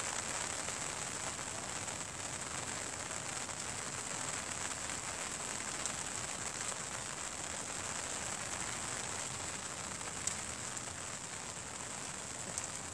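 Steady rain falling on leaves: a continuous, even hiss, broken by a few sharp drop ticks.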